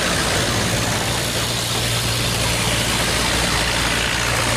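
Boat engine running steadily, a low even drone, over a broad rushing noise.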